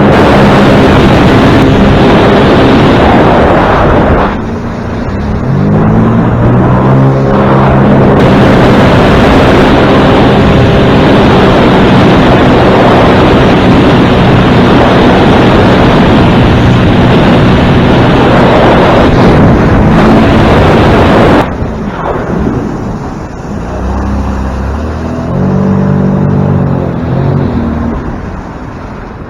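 Motorboat engine running hard under way, with heavy wind noise on the microphone. About four seconds in the engine eases off briefly and climbs back up. About 21 seconds in the throttle drops sharply, and the engine revs up and down again a few seconds later.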